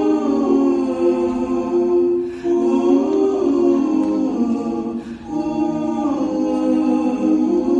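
Wordless, choir-like voices holding slow sustained chords that change every second or two, the opening of a song's accompaniment before the solo voice comes in.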